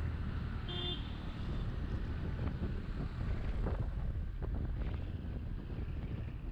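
Wind rushing over a GoPro action camera's microphone during a ride in city road traffic, over a steady low road-and-engine rumble, with a short horn beep about a second in.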